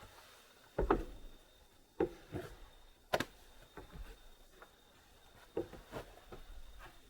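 A series of separate light knocks and taps, irregularly spaced, the sharpest about a second in and about three seconds in: hands shifting and setting down roofing material and tools while fitting and marking a piece.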